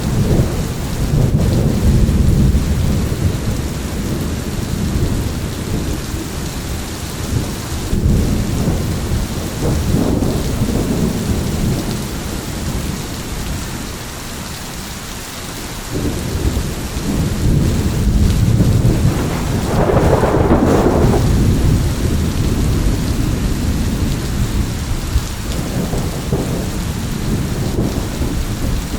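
Thunderstorm: steady heavy rain with rolling thunder that swells and fades several times, the loudest peal about two-thirds of the way through.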